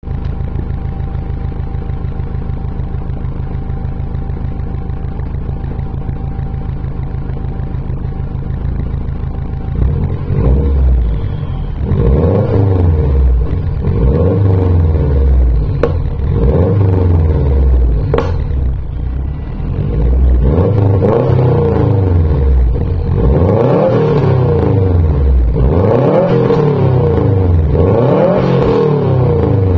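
2007 Subaru WRX's turbocharged 2.5-litre flat-four running through an HKS Hi-Power exhaust with a 3-inch catless downpipe, idling steadily at first. From about ten seconds in it is revved again and again, roughly every two seconds, each rev rising and falling back, the later ones going higher.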